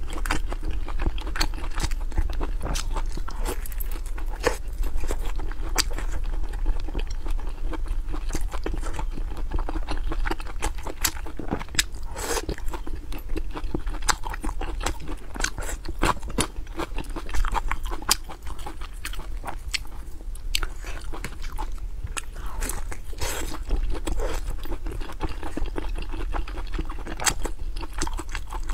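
A person chewing and biting into grilled sausage and meat close to a clip-on microphone: a dense, irregular run of wet mouth clicks, smacks and crunches, over a steady low hum.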